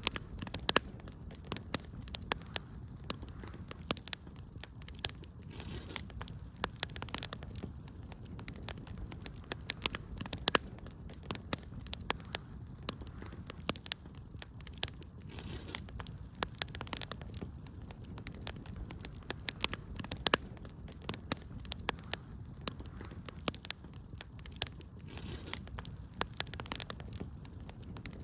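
Wood fire crackling: frequent sharp, irregular pops and snaps over a steady low rumble of the flames.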